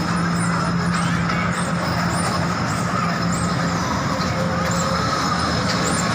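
Steady running noise of a train in motion, with an even low hum and faint short high squeaks now and then.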